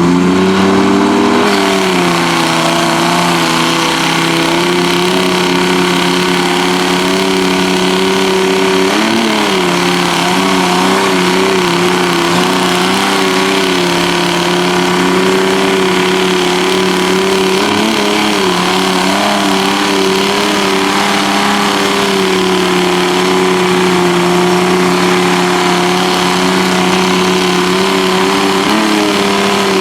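Truck engine held at high revs under load, as in a tug-of-war pull, its pitch staying nearly steady with brief dips about a third of the way in, around the middle, and near the end.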